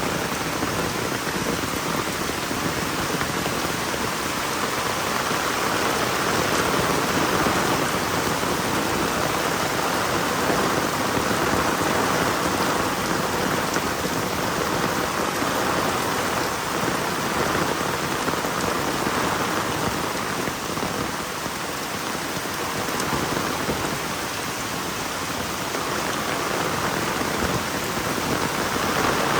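Heavy rain falling steadily, a dense even hiss of drops striking the ground and other surfaces.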